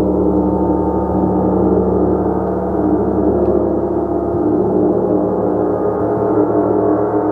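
Gong being played continuously, a dense, steady wash of many overlapping sustained tones, with the lower tones shifting a few seconds in.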